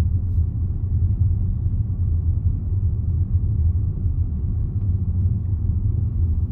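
Steady low rumble of a car being driven, heard from inside the cabin: engine and road noise with no change in pace.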